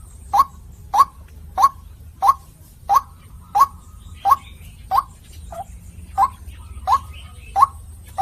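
White-breasted waterhen calling: a steady series of short, loud 'kwak' notes, each rising slightly in pitch, about three every two seconds.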